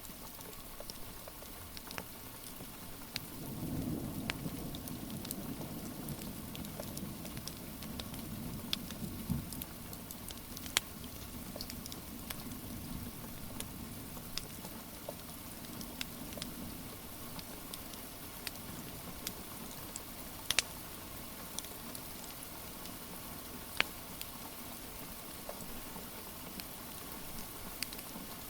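Steady rain with a fireplace crackling, scattered sharp pops from the burning wood standing out now and then. About three or four seconds in, a low rumble swells up and fades away over the next dozen seconds.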